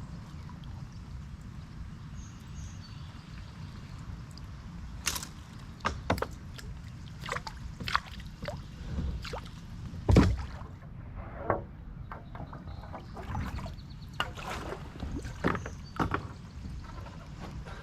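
Kayak paddling: a steady low rumble, and from about a third of the way in, irregular paddle strokes with splashes and sharp knocks against the kayak, the loudest about halfway through.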